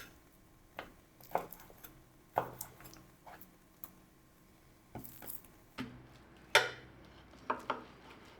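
Kitchenware being handled: irregular light clicks and knocks of dishes and utensils, the sharpest knock about six and a half seconds in.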